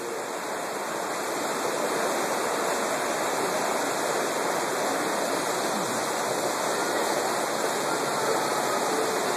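Whitewater river running steadily over rapids: a continuous, even rush of water.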